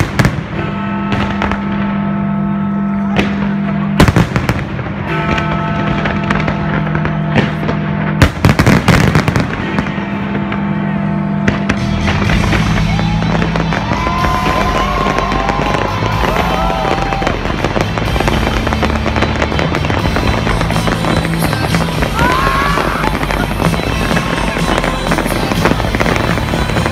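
Large display fireworks going off over music: a few sharp, loud bangs in the first nine seconds, then dense, continuous crackling and booming from about twelve seconds on, with a few whistling glides.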